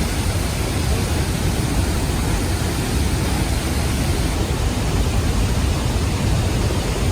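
Large waterfall crashing down in a loud, steady rush with a deep rumble underneath.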